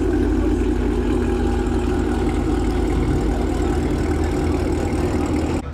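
Car engine idling steadily with a low rumble, cutting off suddenly near the end.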